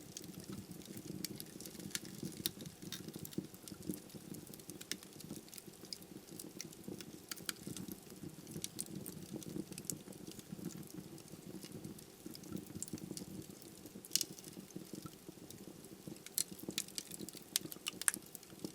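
Wood logs burning in a fireplace: a steady low rumble of the flames with frequent sharp crackles and pops, some louder pops about two-thirds through and again near the end.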